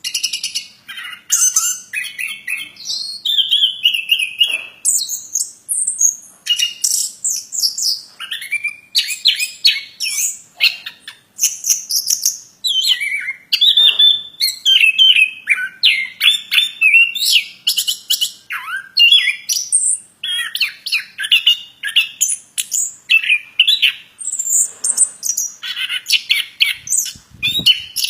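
A plontang songbird singing vigorously: a long, nearly continuous chattering song of quick, varied high notes and trills with only brief pauses.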